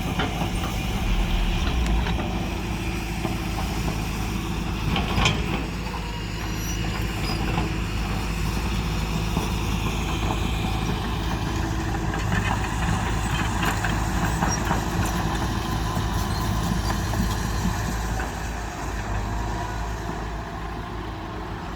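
Heavy diesel engine running steadily, with a few short clanks about five seconds in.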